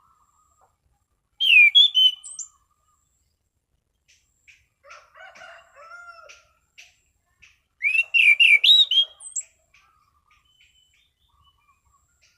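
Anis cendana thrush singing. There are two loud phrases of clear, sweeping whistled notes about six seconds apart, with softer twittering between them.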